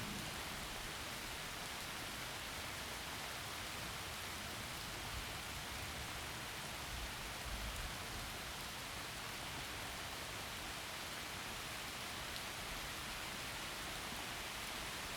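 Heavy rain falling steadily through forest trees, an even hiss, with a faint low rumble of distant thunder about halfway through.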